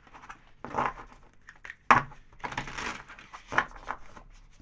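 A deck of tarot cards being shuffled by hand: several short papery bursts of the cards sliding and riffling, with a sharp snap about two seconds in.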